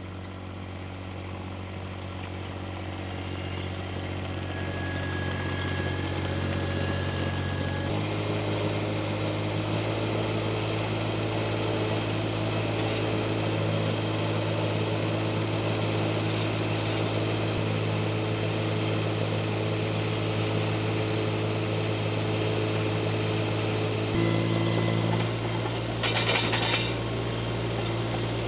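An engine running steadily, stepping up in speed about eight seconds in and again near the end, with a brief noisy clatter shortly before the end.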